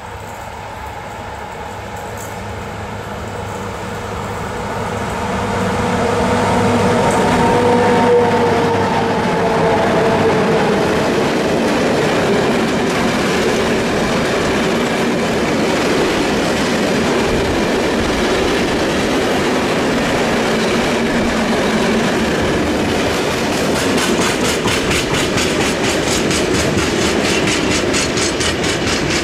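Freight train of tank wagons behind an HŽ electric locomotive, passing close by. The sound builds as the locomotive approaches, and its whine dips slightly in pitch as it goes past. The steady rumble of the wagons follows, with a quick, even clickety-clack of wheels over rail joints in the last few seconds.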